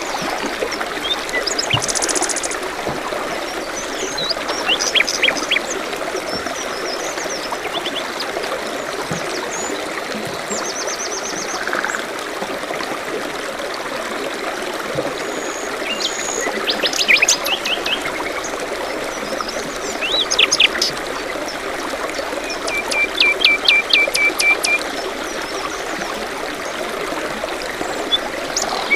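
A steady rush of a stream or trickling water, with songbirds singing over it: scattered phrases of quick repeated high notes and chirps, one trilled phrase of about eight notes near the end.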